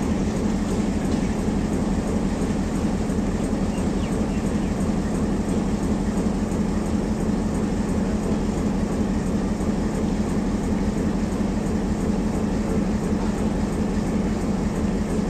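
Diesel-hauled passenger train pulling away, a steady low engine drone over the rumble of the coaches on the track, holding an even level throughout.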